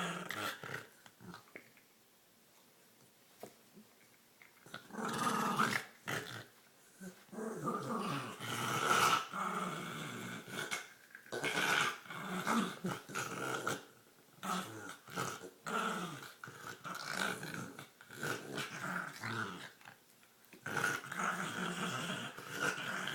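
Dog growling, snorting and gurgling as it plays with a toy, in repeated rough stretches of a second or two after a quiet first few seconds.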